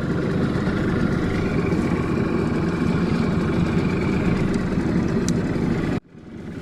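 Boat engine running steadily, which cuts off suddenly about six seconds in.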